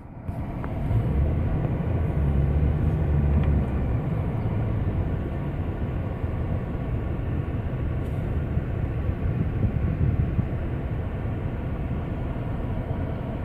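A motor vehicle going by, with a low engine rumble heaviest in the first few seconds over a steady rushing noise that carries on to the end.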